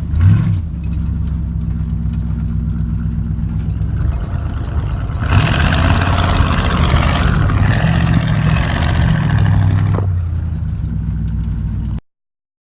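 Chevrolet C10 pickup's engine blipping twice, then running steadily. About five seconds in a loud rushing noise joins it for some five seconds while the revs rise and fall, the tyres spinning through mud. The sound cuts off suddenly near the end.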